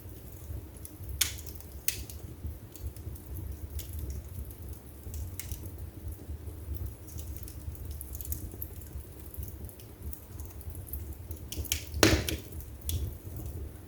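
Wood fire burning in a fireplace: a steady low rumble of flames with scattered crackles and pops, and one loud pop near the end.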